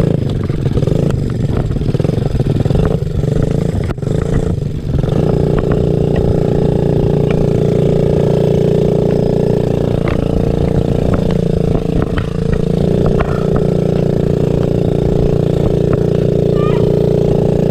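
Small pit-bike motorcycle engine running under way, its pitch wavering for the first few seconds and then holding steady. A single sharp click comes about four seconds in.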